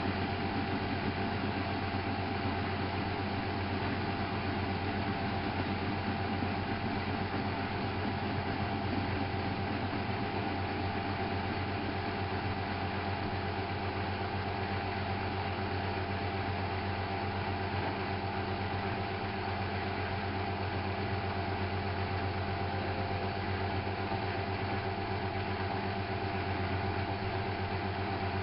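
Miele Novotronic W830 washing machine running with a steady, unchanging motor hum and a constant whine.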